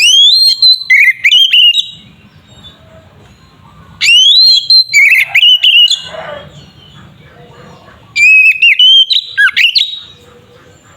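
Magpie-robin (kacer) in full, vigorous song: three loud bursts of rising whistles and rapid harsh notes, a couple of seconds each, separated by quieter pauses.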